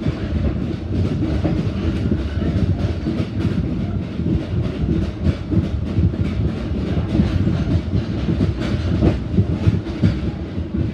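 Reunification Express passenger train running along the track, heard from on board: a steady rumble of the carriage with wheels clicking over the rail joints.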